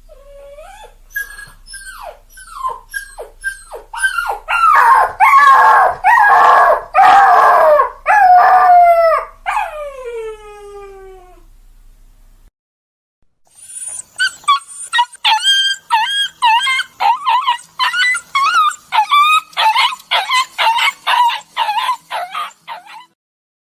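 Dogs whining and crying: a string of short falling whines swells into a loud, crowded stretch of cries and ends in long falling howls. After a short break comes a fast run of high, whimpering yelps.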